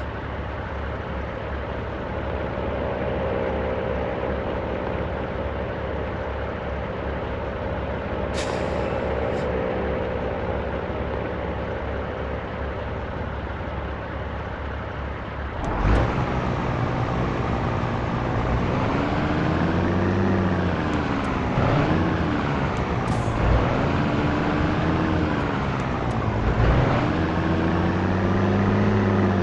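Scania T113 truck's diesel engine running steadily, with a short hiss of released air about eight seconds in. From about sixteen seconds in, the engine note climbs and drops back several times as it revs.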